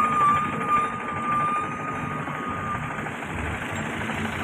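Heavy diesel machinery engine running, with a steady high-pitched tone held over it for about the first three seconds.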